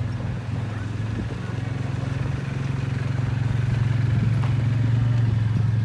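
An engine running steadily with a low, even hum, growing somewhat louder about four seconds in.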